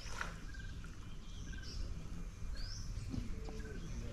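Several birds calling, with repeated short chirps and a few quick rising whistled notes, over a steady low background rumble.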